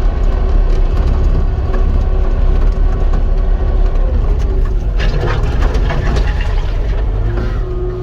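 Cat 259 skid steer's diesel engine running steadily, with a burst of rattling knocks about five seconds in and the engine pitch rising near the end.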